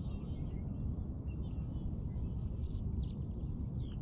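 Small birds chirping and calling, many short chirps and a few quick whistled calls scattered through, over a steady low rumble.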